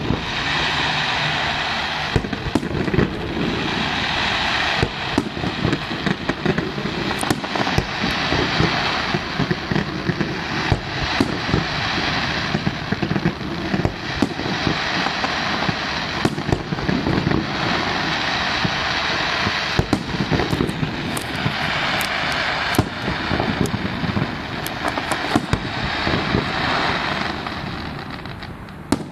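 Fireworks going off: a dense continuous crackle peppered with many sharp bangs and pops, easing off near the end.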